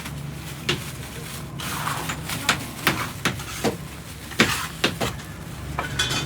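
A dozen or so irregular sharp knocks of hard objects striking, over a steady low hum from a running machine.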